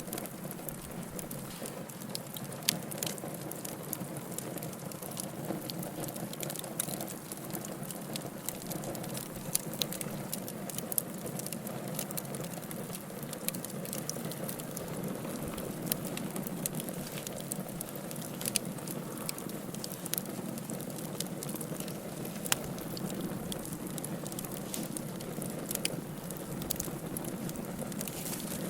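Wood fire burning in a fireplace: a steady low rush of flames with frequent sharp crackles and pops, and a few louder snaps scattered through.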